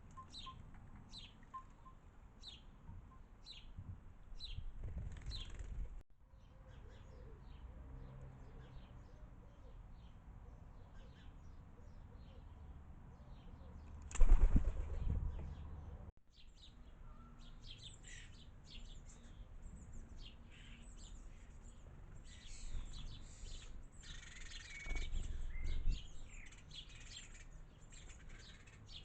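Small garden birds chirping in short repeated notes, with a loud close flurry of wingbeats about halfway through and another near the end.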